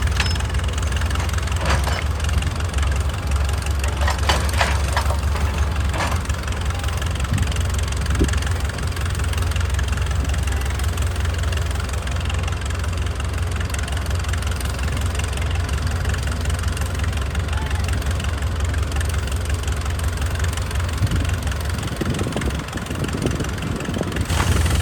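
Heavy machine's engine running steadily with a deep, even rumble, with a few sharp knocks in the first six seconds.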